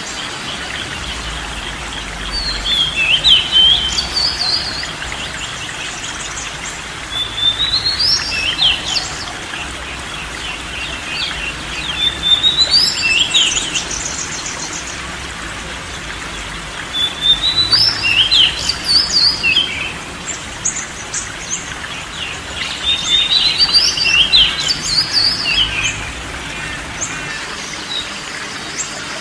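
Oriental magpie-robin (kacer) singing: five separate phrases of rising whistles and quick trills, one about every five seconds, over a steady hiss.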